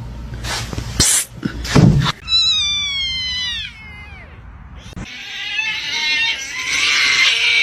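Cats meowing: a long meow a couple of seconds in that drops in pitch at its end, then, after a cut, a louder drawn-out yowl that falls away near the end. Two short, loud noises come just before the first meow.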